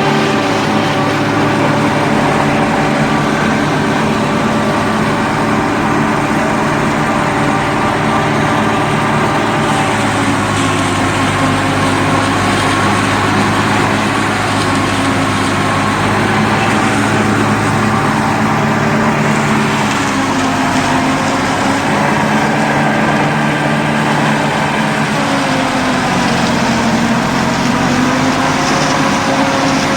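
Engine of the silage-making machinery running steadily, its pitch sagging briefly twice in the second half as the load on it changes.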